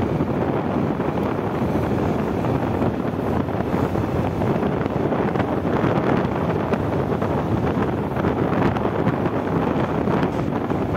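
Motorcycle riding along, its engine and road noise mixed with steady wind noise on the microphone.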